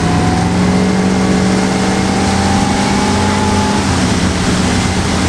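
Motorboat engine running at speed while towing a tube, its pitch climbing slowly over the first four seconds and then shifting, over a steady rush of wind and water.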